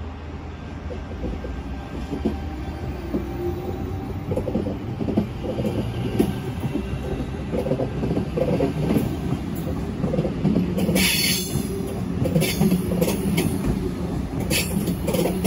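Sydney Trains double-deck electric train pulling away from the platform: a low rumble of motors and wheels that grows louder as it picks up speed. Near the end come several sharp clicks and brief squeaks from the wheels on the rails.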